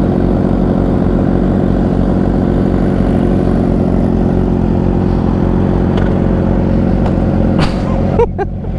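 Suzuki GSX-R 600 inline-four engine running loud and steady at constant revs. About eight seconds in, the sound dips briefly and then picks up again.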